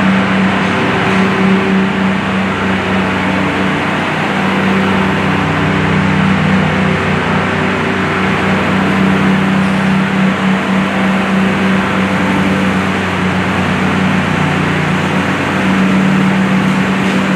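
Loud, steady drone of machinery running in a noisy pit barn: a constant hum that holds one pitch under an even wash of mechanical noise, dipping out briefly a few times.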